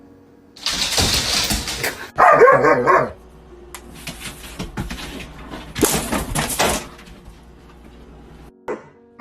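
A dog barking briefly, about two seconds in, between longer stretches of hissing, rustling noise.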